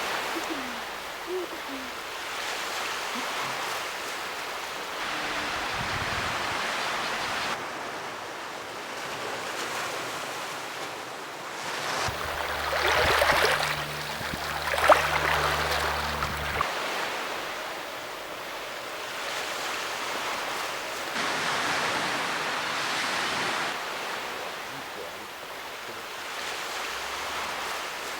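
Small waves washing on a shore, the surf swelling and fading every few seconds. A low rumble joins it for a few seconds in the middle, and there is one sharp knock about fifteen seconds in.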